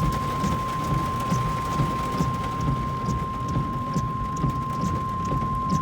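Hail and heavy rain pelting the car, a dense irregular drumming of hits with a low rumble beneath. A steady high electronic beep tone is held throughout.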